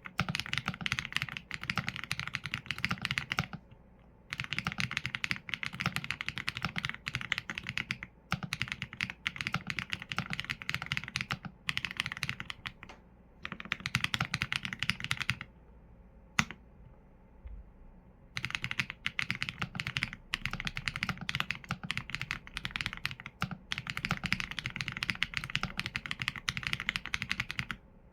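Typing on a Qsenn A75 mechanical keyboard with Leobog Graywood V4 linear switches and PBT keycaps: fast runs of keystrokes lasting a few seconds each, broken by short pauses. A longer pause of about three seconds comes past the middle, with a single keystroke in it.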